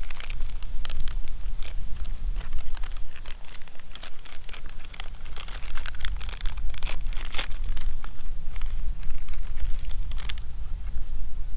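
Heavy wind buffeting the microphone with a steady low rumble, over the irregular crinkling and tearing of a plastic food pouch being worked open by hand.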